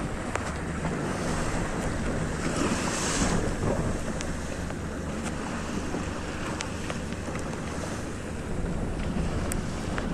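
Small boat at sea: a motor running steadily under wind buffeting the microphone and water washing against the hull, with a louder splash-like hiss about two and a half seconds in.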